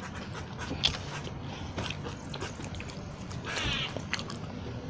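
Mouth sounds of someone eating buffalo wings: scattered wet clicks and smacks, the loudest about a second in. A short squeaky high call comes about three and a half seconds in.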